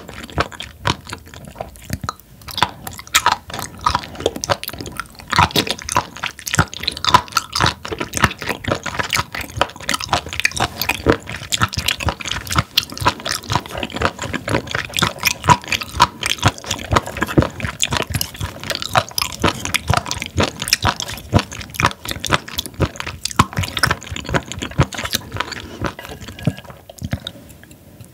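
Close-miked chewing of raw spoon worm: a dense, continuous run of crunchy, chewy mouth clicks and squishes.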